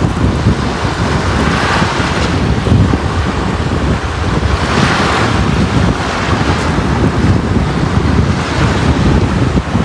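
Sea waves washing onto a beach: a steady surf hiss over a heavy low rumble, swelling as waves break about two seconds in and again around five seconds.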